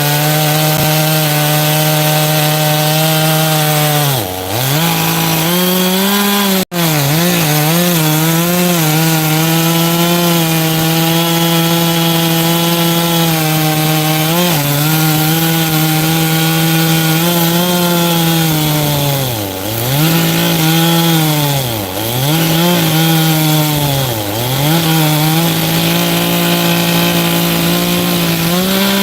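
Two-stroke chainsaw running at high revs through firewood, its pitch dipping sharply several times as the chain bogs down in the cut and then recovering.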